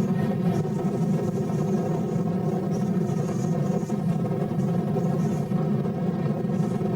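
A train running steadily, giving a constant mechanical drone with a steady hum of layered tones.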